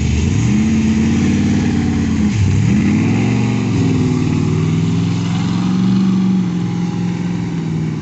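Car engine accelerating away, pitch climbing, then dropping sharply at a gear change about two and a half seconds in before climbing again. It then holds a steady pitch and eases off near the end.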